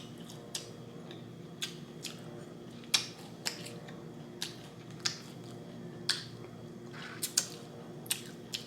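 Close-miked eating: sharp, wet mouth smacks and clicks while chewing fried chicken, about one a second, over a faint steady hum.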